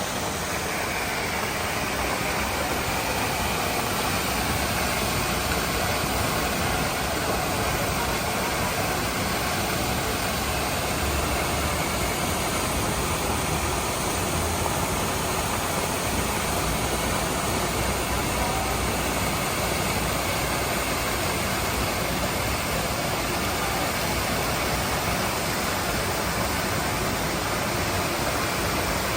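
Steady, unbroken rush of the Düden waterfall, an even noise from low to high pitch.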